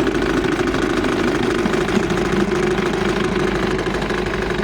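Bassett-Lowke model steam engine running steadily under about 25 psi of steam, a fast, even, engine-like beat with no change in speed.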